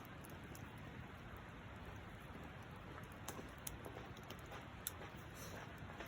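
Wood campfire crackling: a faint steady hiss with scattered sharp pops and ticks, the loudest pop about five seconds in.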